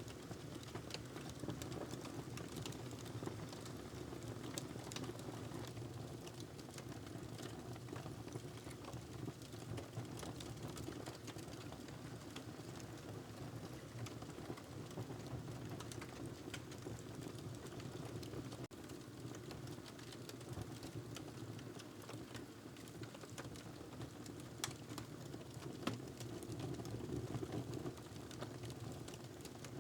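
Wood fire crackling in a fireplace: many small, irregular pops and snaps over a steady low rush, with one sharper pop near the end.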